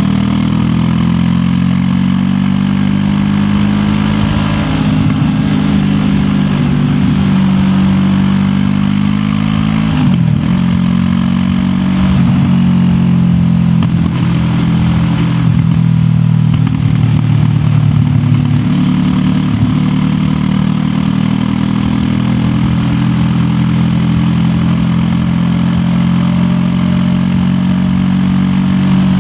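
QJ Motor SRT 700X parallel-twin motorcycle engine running at steady cruising revs while riding. Its pitch dips and recovers briefly several times, about ten, fifteen and nineteen seconds in.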